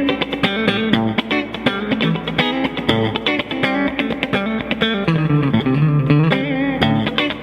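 PRS semi-hollow electric guitar with P90 pickups being played: a quick run of picked notes and chords, with vibrato on held notes near the end.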